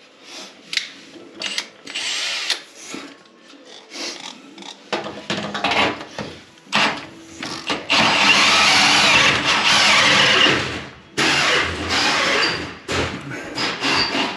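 Handheld power tool run in many short bursts, then held on for about three seconds near the middle and run again briefly a moment later.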